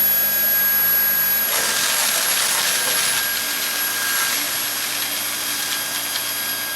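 Dyson V8 cordless stick vacuum running on Max power with a steady high-pitched whine. Partway through, a rushing, crackling noise rises over it as dry cereal is sucked up off the carpet, then fades while the motor keeps running.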